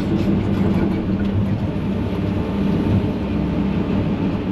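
Diesel engine of an excavator running steadily, a constant low hum with a few faint small knocks near the start.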